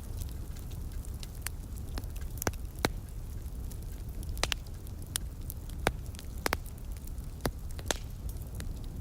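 Wood fire crackling, with irregular sharp pops and snaps scattered over a steady low rumble.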